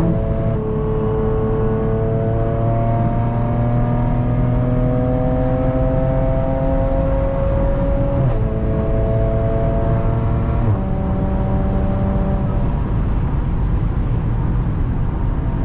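Straight-piped Audi engine and exhaust accelerating, heard from inside the car. The note climbs steadily, drops at an upshift about 8 seconds in and again at a second upshift near 11 seconds, then holds steady.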